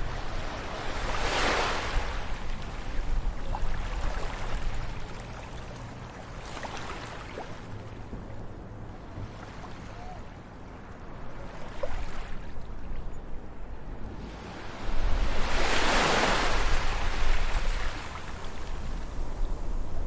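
Ocean waves breaking on a beach: one wave crashes about a second in and a bigger one about fifteen seconds in, with smaller waves washing in between, over a steady low rumble of surf.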